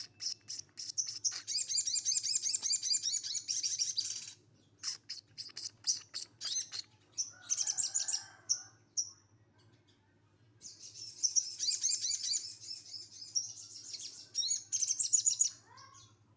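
A sogon songbird singing in fast, high-pitched trilled bursts, the coarse rapid 'tembakan' phrases prized by songbird keepers, broken by separate short chips and a pause of about a second and a half near the middle.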